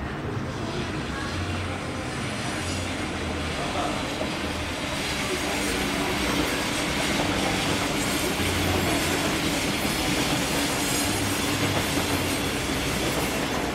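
Yellow NS double-deck electric passenger train running past, its wheels rumbling on the rails with a steady hum. The noise swells from about five seconds in and stays at its loudest until easing near the end.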